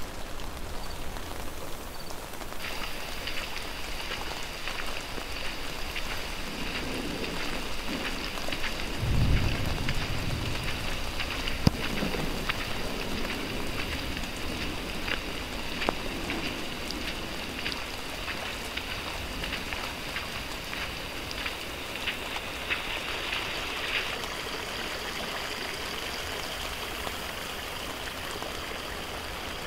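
Steady rain falling, with many sharp drops ticking close by. A low rumble comes about nine seconds in, and a steady high-pitched tone sounds under the rain from a couple of seconds in.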